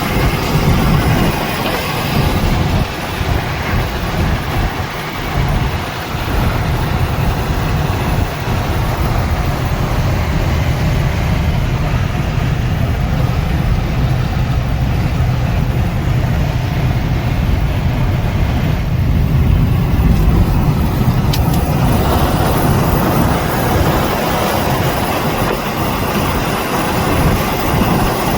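Semi truck driving at road speed: a steady, loud engine and road rumble with tyre and wind noise, the hiss getting louder about three-quarters of the way through.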